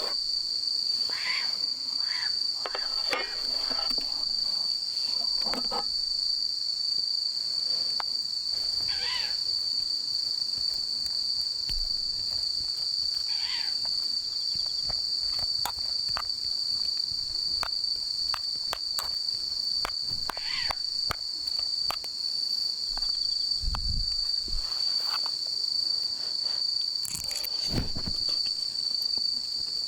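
Japanese bell crickets (suzumushi) singing in a steady, high, continuous chorus, with scattered faint clicks and a couple of soft low thumps.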